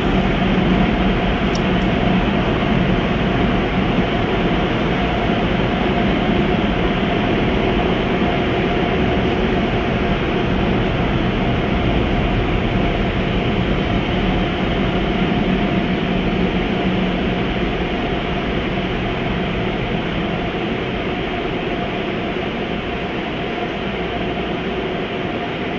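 Automatic car wash equipment running: a loud, steady rush of noise with a low motor hum under it, easing off slightly near the end.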